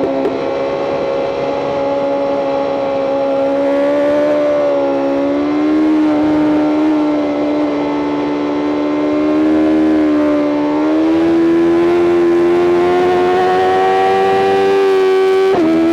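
BMW M 1000 RR superbike's inline-four engine running at high revs under throttle, its note held high and climbing gradually over the second half, with a brief sharp dip near the end.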